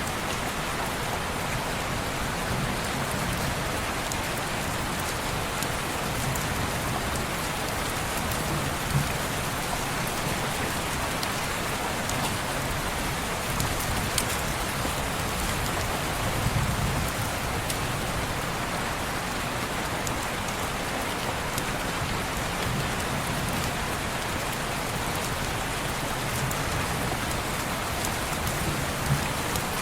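Steady rain falling on window glass, with a low rumble that swells now and then and a few sharp ticks and pops.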